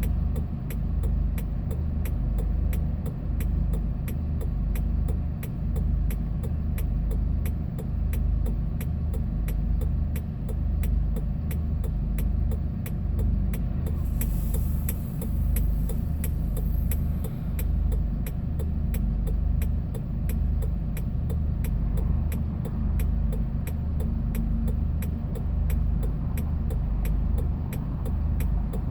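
Hyundai Porter 2 box truck on the move, heard from the cab: a steady low engine and road rumble, with faint regular ticking throughout.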